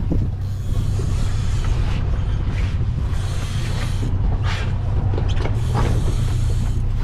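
A boat's outboard motor running steadily, a low hum under a haze of wind and water noise.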